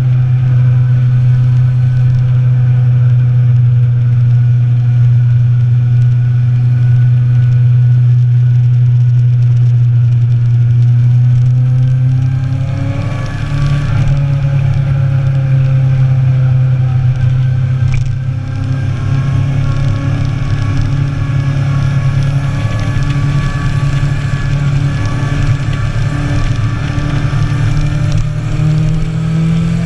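Inline-four sport motorcycle engine running at a steady speed. About twelve seconds in, the engine note changes and climbs as the bike accelerates, and it climbs again near the end.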